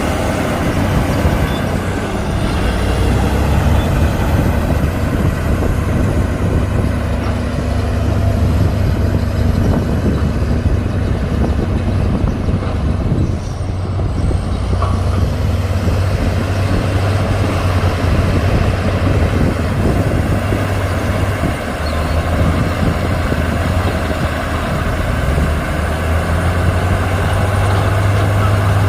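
The heavy diesel engines of earthmoving machinery, a bulldozer and dump trucks, running steadily under load. It is a deep, continuous drone, and the engine note shifts a little past the middle.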